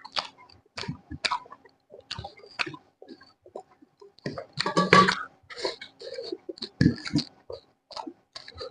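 Close-miked chewing and mouth noises: irregular wet smacks and crunchy bites, with a louder burst of chewing about five seconds in.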